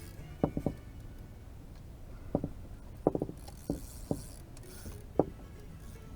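Scattered dull knocks and taps, about nine in all at irregular intervals, with a faint high hiss partway through.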